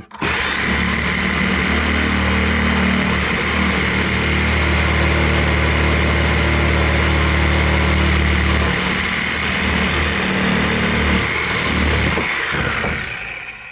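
Corded electric power tool running steadily with a high whine over a low rumble, then winding down and stopping near the end.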